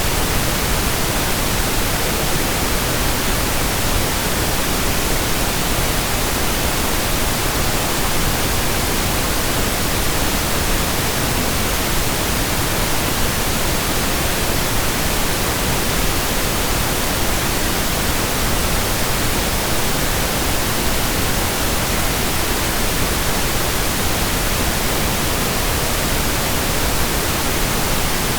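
Steady synthetic pink noise: an even, unchanging hiss spread across the whole range, with no pitch, rhythm or events.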